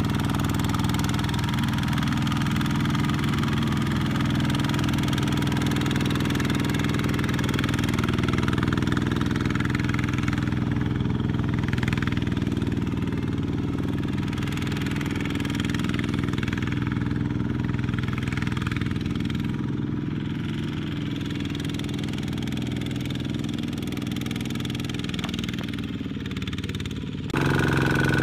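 Small diesel engine of a mini tractor (power tiller) running steadily in a muddy field. Near the end the sound changes suddenly to a louder engine with a high steady whine on top.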